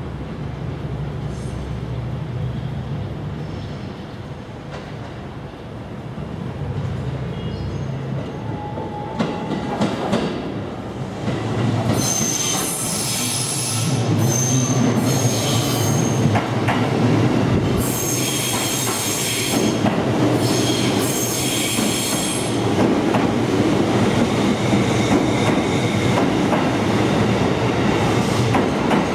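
JR 205 series electric train arriving over curved pointwork. A low rumble of wheels and running gear comes first, then high-pitched wheel squeal in several bouts, from about twelve seconds in and again around eighteen to twenty-two seconds. After that comes a steady, louder rolling noise as the cars pass close by.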